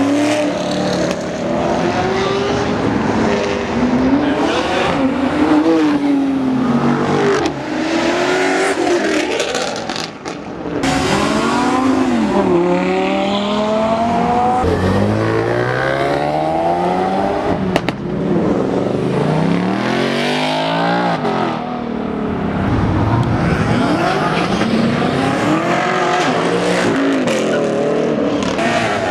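Several performance cars accelerating hard away one after another, engines revving up through the gears with rising engine notes that drop at each shift and climb again.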